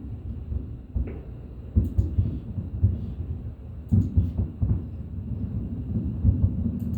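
Fireworks shells bursting in a run of deep booms over a continuous low rumble, with sharper bangs about two, four and seven seconds in.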